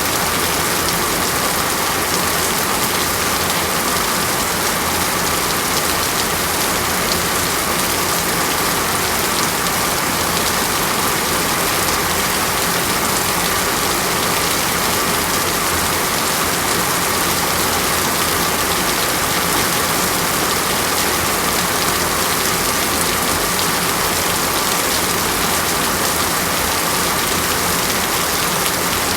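Steady, even rainfall, a dense hiss of drops falling on a surface.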